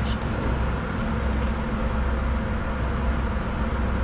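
Steady flight-deck noise of a Bombardier Challenger 605 business jet in flight: an even rush of airflow over a low, constant hum with faint steady tones. A faint tick sounds right at the start.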